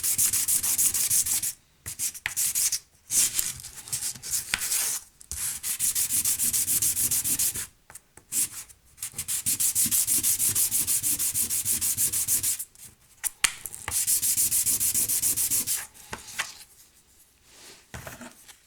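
Hand sanding with 1000-grit sandpaper: quick back-and-forth rubbing strokes in spells of a few seconds, broken by short pauses. Near the end it gives way to a few light handling sounds.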